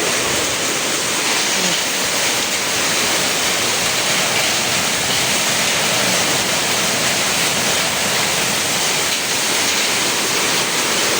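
Heavy rain mixed with marble-sized hail pouring down in strong wind: a loud, steady, dense hiss that does not let up.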